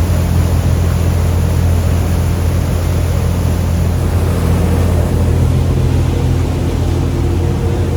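Boat engine running steadily with a low, even hum, under a steady rushing noise.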